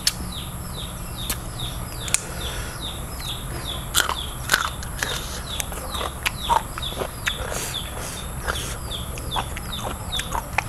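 A bird chirping over and over, about three short falling chirps a second, with sharp crunchy clicks of someone chewing scattered through it.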